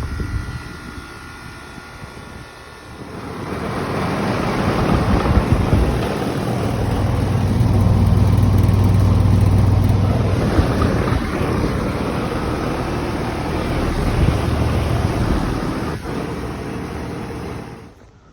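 Outdoor air-conditioner condensing units running, mainly a 1999 Ruud Achiever: the condenser fan's steady rush of air over a low compressor hum. The sound swells about three seconds in, shifts as another unit takes over past the middle, and drops away sharply near the end.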